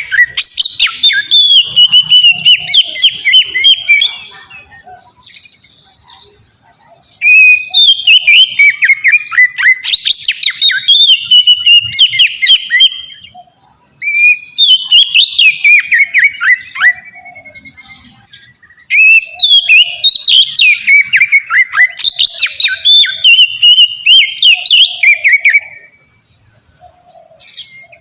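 Oriental magpie-robin (kacer) singing in full, open 'ngeplong' style: long, varied phrases of quick gliding whistles mixed with rapid clicking notes, in four stretches with short pauses between.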